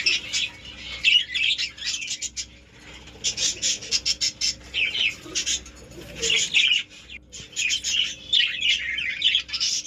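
Budgerigars chattering: a dense run of overlapping warbles and quick, clicky chirps, with brief lulls around three and seven seconds in.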